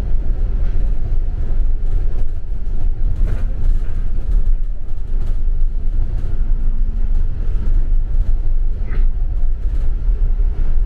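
Double-decker bus in motion, heard from inside the cabin: a steady low rumble of engine and road, with a few faint rattles.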